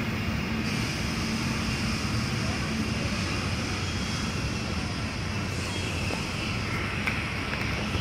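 Double-stack intermodal freight train rolling past: a steady rumble of wheels on rails, with a low engine drone that fades out after the first few seconds.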